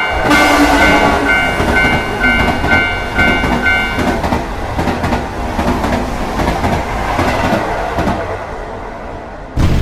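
Train passing over a railway level crossing, a loud rumble with clattering rails, while the crossing's warning bell keeps ringing about twice a second for the first four seconds or so. Near the end a louder rush of train noise begins.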